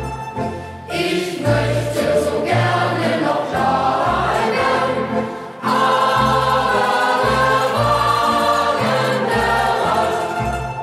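Youth choir singing a German Fahrtenlied (hiking song) with instrumental accompaniment carrying a steady bass line.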